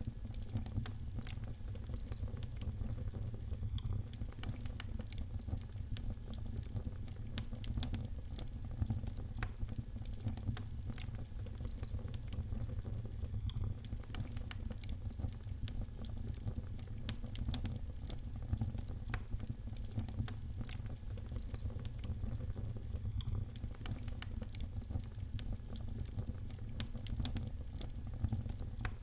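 Wood fire crackling: a dense, irregular run of small pops and snaps over a steady low rumble of the flames.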